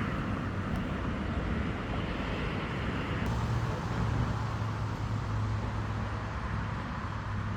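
Steady outdoor traffic noise from a residential street. A low engine hum from road traffic strengthens about three seconds in and holds steady.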